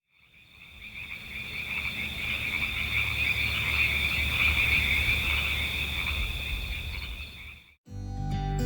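A steady chorus of frogs calling, fading in over the first second or two and cutting off abruptly near the end.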